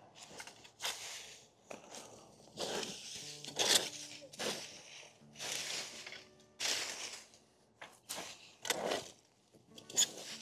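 A series of short, rough scraping noises, roughly one a second, irregularly spaced, over faint background guitar music.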